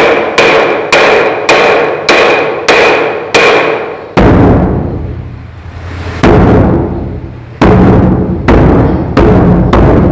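A mosque bedug drum being beaten ahead of the call to prayer. A steady run of sharp, ringing knocks, about two a second, stops about three and a half seconds in. Then come deep booming drum beats, spaced widely at first and coming faster toward the end.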